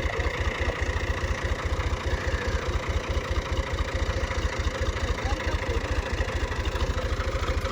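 Tractor's diesel engine running steadily at low speed: an even, low chug of about ten beats a second.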